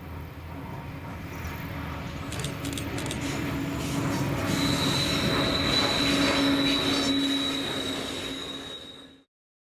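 A train passing, its wheels squealing on the rails in a thin, high, steady tone over a low steady hum, with a few clicks from the wheels. The sound grows louder, then cuts off suddenly shortly before the end.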